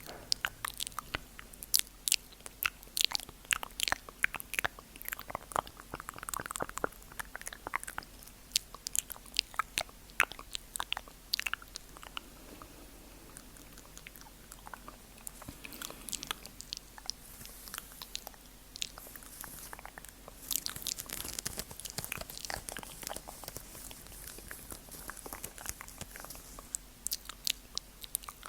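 Close-miked ASMR mouth sounds: a long run of sharp wet clicks and smacks, thickest in the first half, giving way to softer, hissier wet sounds for a few seconds past the middle of the second half.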